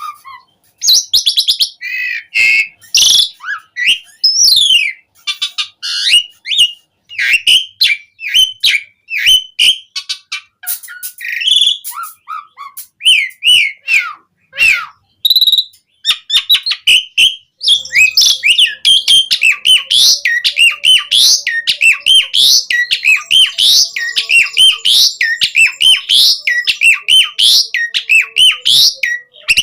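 Asian pied starling (jalak suren) singing a loud, varied song of whistles and chirps in short phrases; a little past halfway it turns into a fast, unbroken run of repeated chirps.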